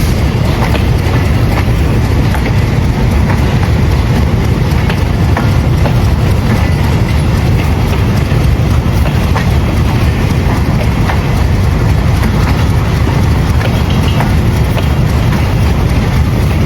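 A train running on the track: a steady, loud rumble of wheels on rail with frequent clicks and clacks over rail joints.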